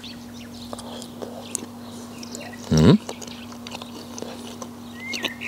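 A person chewing a mouthful of grilled pork loin close to a lapel microphone, with soft wet clicks and smacks. There is a short hum of the voice about halfway through, and a bird chirps near the end.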